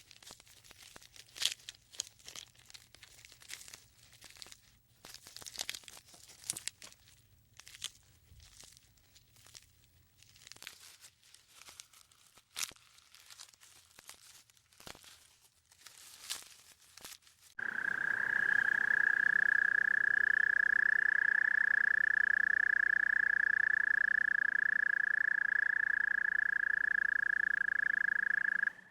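Irregular crunching and crackling clicks, like a small animal chewing or rustling. About 18 s in, a loud, steady high-pitched trill starts and holds unbroken, typical of a calling frog or toad.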